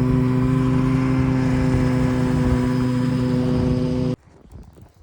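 An engine running steadily at a constant pitch, cut off abruptly about four seconds in, leaving faint sounds.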